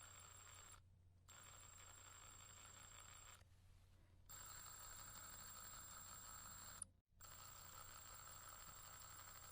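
Near silence: a faint steady hum and hiss with a thin high steady tone, cutting out completely three times, about one, four and seven seconds in.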